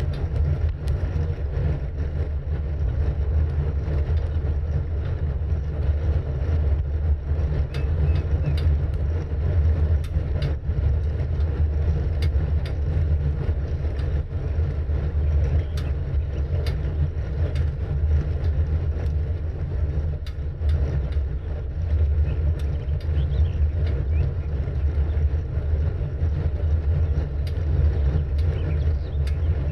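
Steady low rumble of wind on the microphone and rolling road noise from a bicycle being ridden, with scattered small clicks.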